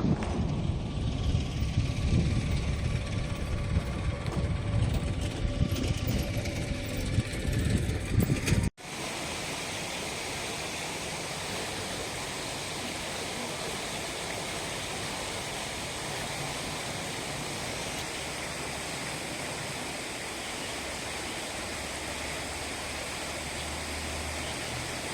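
Wind buffeting the microphone outdoors, a loud, uneven low rumble, then after a sudden cut about nine seconds in, a steady, even rush of flowing floodwater.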